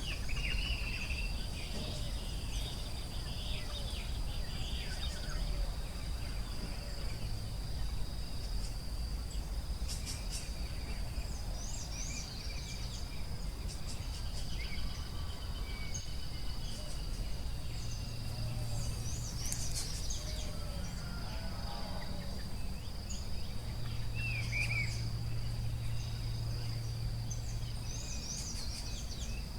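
Forest ambience: insects keep up a steady, high, unbroken drone while birds call in short, scattered chirps and whistles over a low, steady rumble.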